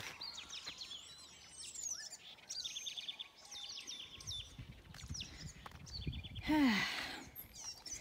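Several small birds chirping and calling in dry scrub: quick series of short repeated notes and sweeping whistles. A low rumble comes in about halfway, and about six and a half seconds in a brief, louder sound falls steeply in pitch.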